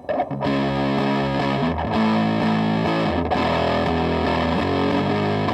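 Electric guitar played through a distortion pedal, strumming and holding sustained chords that change about once a second, with a thick fuzz-like tone.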